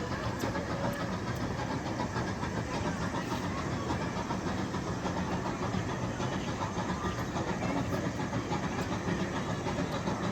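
The engine of a zoo's miniature train locomotive running steadily.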